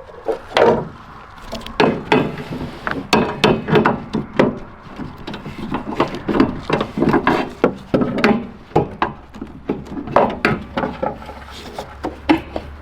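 Irregular knocking and clattering of hand tools and loose parts being handled, as in teardown work on an old truck. A steady low hum joins in about two thirds of the way through.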